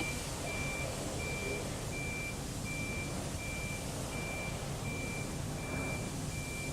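Vehicle reversing alarm beeping at an even pace, about three beeps every two seconds, over a low steady hum.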